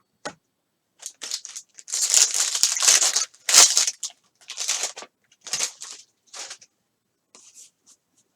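Baseball card pack wrapper being torn open and crinkled: a long, loud tear about two seconds in, followed by several shorter crinkling rustles that trail off to small ticks.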